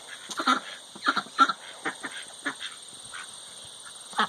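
Domestic ducks quacking: a run of short quacks, several in the first couple of seconds, then fewer, with another just before the end.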